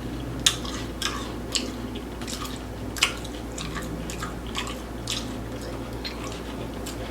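A person chewing food close to the microphone, with irregular wet clicks and smacks.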